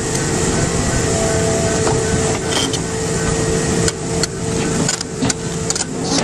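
Heavy vehicle engine running steadily, with scattered knocks and clanks over it.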